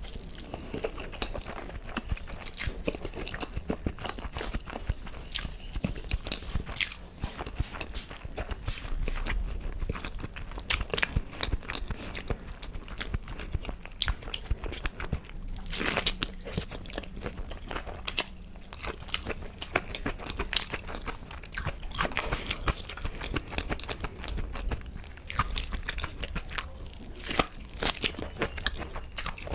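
Close-miked eating: irregular crunchy bites and chewing of crisp fried food, with sharp crackles throughout.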